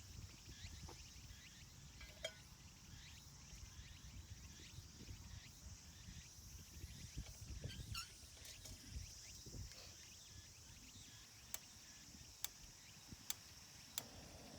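Quiet open-air ambience: a low wind rumble and a steady high hiss, with many faint short chirps of small birds. Near the end come four sharp clicks, each less than a second apart.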